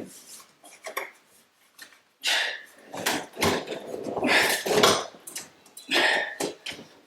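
Metal clattering and scraping in a series of short, irregular bursts, from hands and tools working on an over-the-range microwave and its mounting. The loudest stretch runs from about two to five seconds in, with another burst near six seconds.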